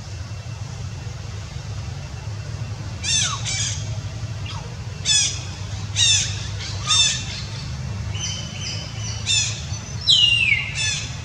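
A bird calling: a series of about eight short calls, each falling in pitch, starting about three seconds in, with a longer falling call near the end. A steady low hum runs underneath.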